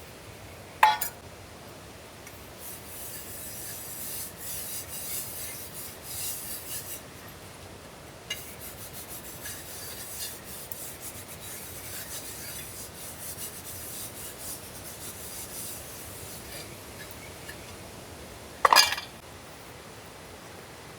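Cookware being scraped and rubbed in two long stretches, with a sharp ringing clink about a second in and another near the end.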